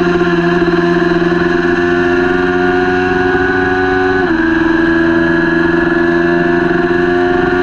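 Kawasaki Ninja 400's parallel-twin engine running hard at high revs, its pitch climbing steadily. About four seconds in it drops sharply at an upshift, then climbs again.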